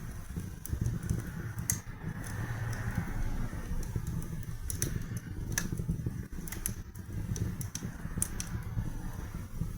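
Wood fire burning in a fireplace: a steady low rumble of flames with sharp crackles and pops every second or so.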